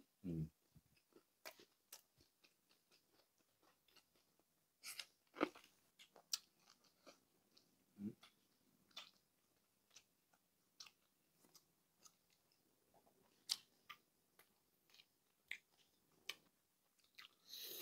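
Faint chewing of crispy pata, deep-fried pork leg, with short crunches of its crisp skin coming irregularly every second or so, two louder ones about 5 and 8 seconds in.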